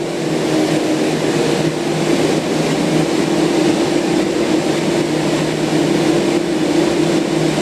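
A standing H-set (OSCAR) electric train humming steadily, with two steady low tones over an even rushing noise.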